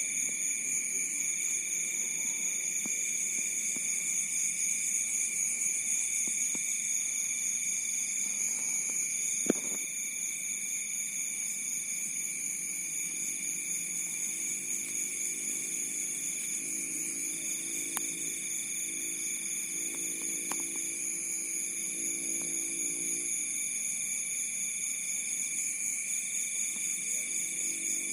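Crickets chirring without a break at several different pitches. One higher-pitched chirr stops and starts every two to three seconds. A single sharp click comes about a third of the way in.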